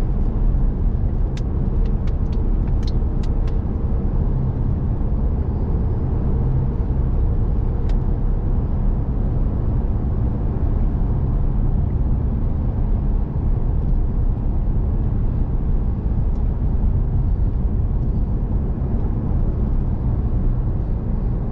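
Steady low road and engine drone heard from inside a moving diesel vehicle at cruising speed. A few faint ticks come in the first few seconds and one more at about eight seconds.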